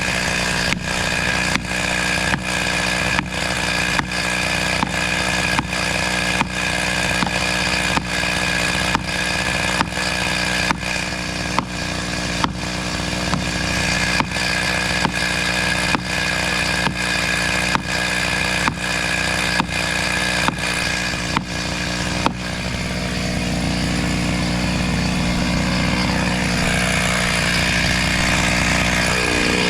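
Chainsaw engine running at a steady high speed, with a sharp click a little more than once a second until about two-thirds of the way through, after which it runs on evenly.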